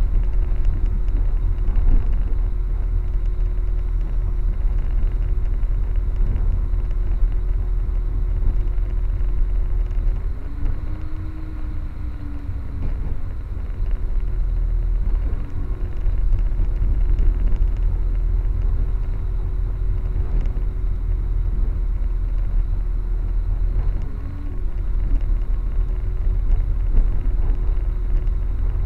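Steady low rumble of a moving passenger train heard from inside the carriage, with a constant hum over it.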